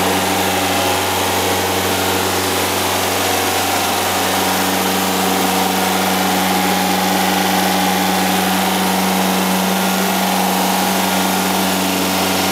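Freshly built 2.3-litre (2276 cc) VW Type 3 air-cooled flat-four, breathing through twin Weber 44 IDF carburettors, running steadily at an even speed on its first run.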